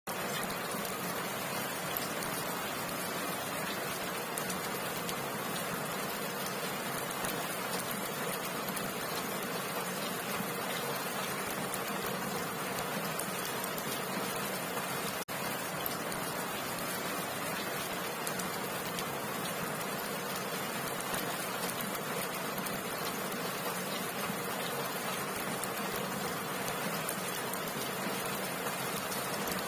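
Heavy rain falling steadily, a dense, even hiss of drops, with a momentary break in the sound about halfway through.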